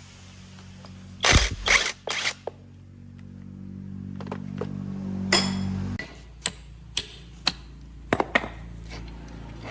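Workshop sounds: three loud knocks, then a low motor hum that grows louder and cuts off suddenly about six seconds in, followed by a series of sharp clicks and taps.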